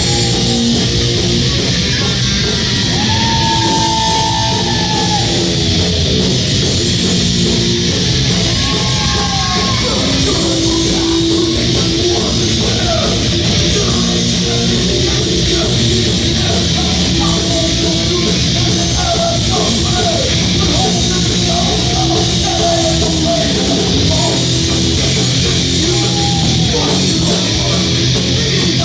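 Crossover thrash band playing live and loud, with distorted electric guitars over bass and drums, and bending guitar or vocal notes throughout.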